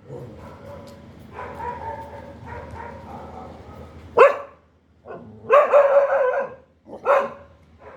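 A dog barking: a quieter drawn-out vocalising for the first few seconds, then a sharp bark, a longer drawn-out bark and another short bark near the end.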